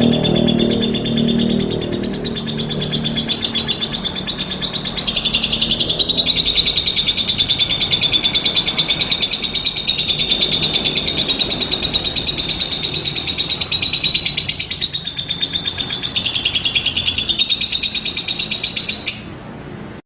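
Fischer's lovebird singing: a fast, even string of high chirps, about four to five a second, that stops abruptly near the end. For the first two seconds it overlaps the fading end of synthesizer music.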